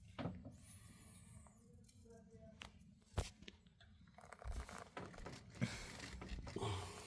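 Faint scattered knocks, clicks and rustling, with one sharp knock about three seconds in.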